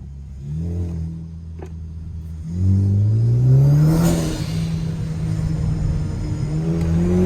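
Turbocharged Kia sedan's engine accelerating under light throttle, heard from inside the cabin. The revs climb from about two and a half seconds in, drop at an upshift with a hiss from the turbo's blow-off valve, then climb again near the end.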